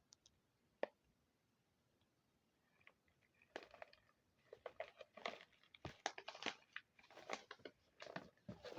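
Two sharp clicks, then from about three and a half seconds in, close, irregular crunching and crackling from the pretzel snack.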